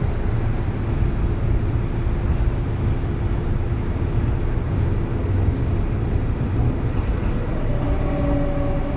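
Kintetsu 3200 series train running, heard inside motor car Mo 3205: a steady rumble of wheels and running gear. Near the end, the steady whine of its early Mitsubishi GTO VVVF inverter comes in.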